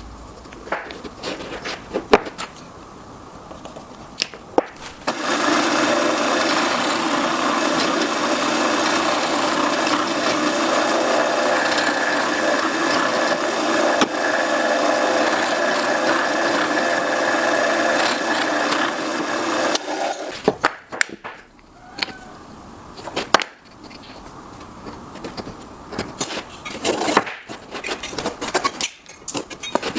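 A woodworking power tool runs steadily from about five seconds in until about twenty seconds in. Before and after it come short knocks and handling sounds on wood.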